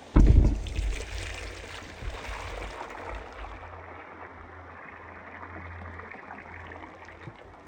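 A heavy knock right at the start, then collected rainwater pouring and splashing into a sufuria cooking pot, the rush easing off about halfway through and trickling on more quietly.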